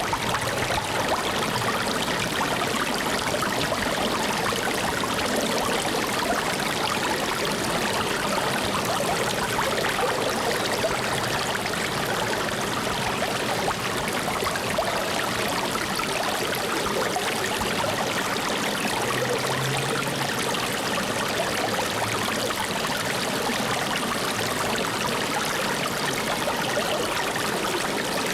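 Flowing water: a stream running steadily over rocks, an even rushing and trickling.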